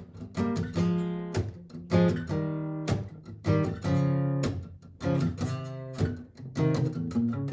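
Steel-string acoustic-electric guitar, a Martin GPCPA4, strumming chords in a steady rhythm, each strum ringing on.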